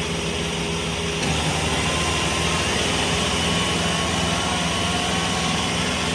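Diesel tractor engines running steadily, getting a little louder about a second in.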